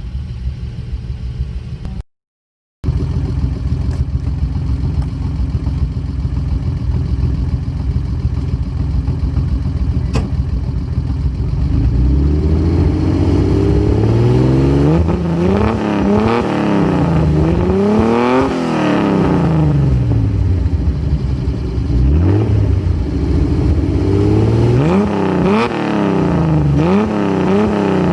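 Datsun S30 Z's L-series straight-six on Solex carburettors idling steadily, then revved in a series of throttle blips from about halfway through, the pitch climbing and falling quickly each time, with a cluster of quick blips near the end.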